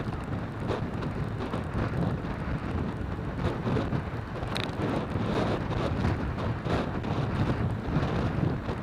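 Wind buffeting the microphone: a steady low rumble with no clear engine tone.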